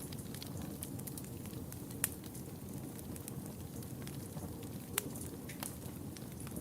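Wood fire burning in a fireplace: a steady low rush of flame with scattered sharp crackles and pops, two louder pops about two and five seconds in.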